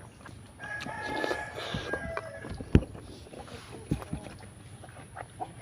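A rooster crowing once, a held call of a second and a half or so, with a few sharp clicks of eating after it.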